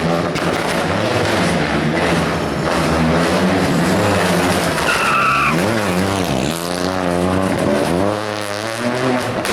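Rally car engine revving hard through the gears, its pitch climbing and dropping again and again, with a short tyre squeal about five seconds in.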